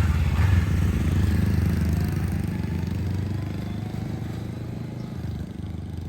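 Honda CB500X parallel-twin motorcycle engine running as the bike pulls away on a test ride, its sound fading steadily as it moves off.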